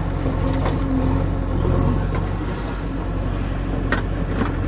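A heavy diesel engine running steadily at a low pitch, with a few short knocks over it, about a second in and twice near the end.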